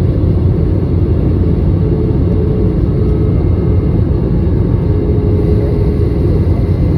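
Steady low rumble of aircraft noise, with a faint higher hum that comes and goes.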